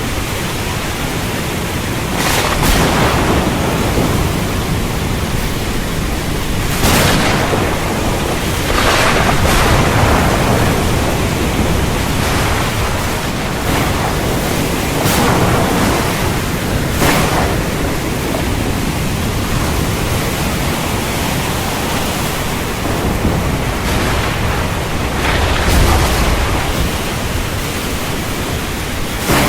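Steady heavy rain hissing, with thunder cracking and rumbling several times, the strongest rumble near the end.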